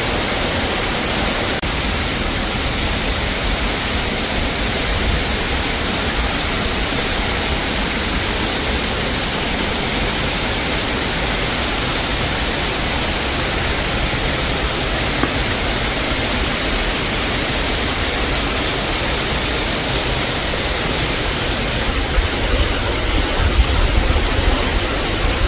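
Steady, even rushing of water, a dense hiss with a low rumble underneath. About three seconds before the end the highest hiss drops away and the low rumble grows stronger.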